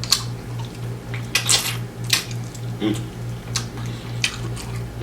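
Close-miked eating of a sauced chicken wing: short wet smacks and clicks of biting and chewing, about one every half second to second, over a low steady hum.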